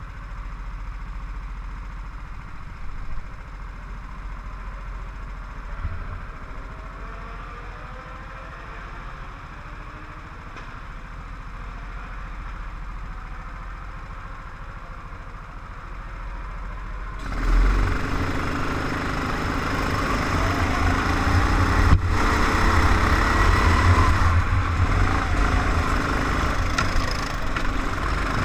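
Go-kart engines. Faint engine sound with rising and falling pitch, then about 17 seconds in a much closer kart engine starts up and keeps running, much louder.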